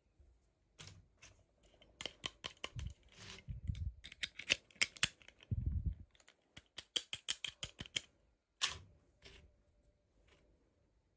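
Hands handling small plastic toy packaging and parts: quick runs of sharp clicks, taps and crackles, with a few dull low knocks in the middle.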